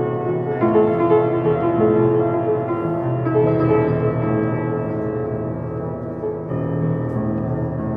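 Piano playing slow, held chords, moving to a new chord about every three seconds.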